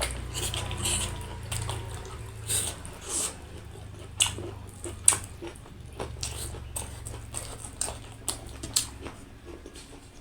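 Close-up eating sounds: a person chewing and smacking on food, with irregular wet clicks and crunches several times a second.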